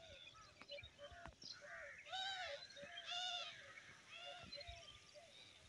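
Several birds calling in short, repeated, arching calls, with two louder calls about two and three seconds in.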